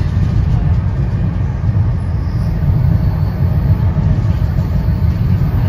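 Steady low rumble inside an NJ Transit Comet II/IV passenger coach running at speed: wheels on the rails and the car's ride noise, even throughout.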